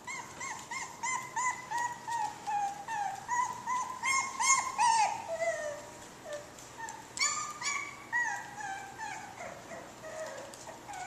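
Boston Terrier puppies whimpering and squeaking: a steady run of short, high-pitched cries, several a second, busiest about halfway through.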